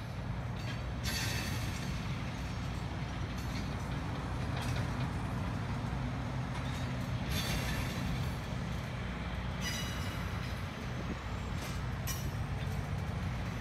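A slow work train of gondola cars and a caboose rolling along the track behind a Brandt road-rail truck: a steady low diesel drone under the rumble of the wheels, with about four short bursts of wheel squeal and rattle.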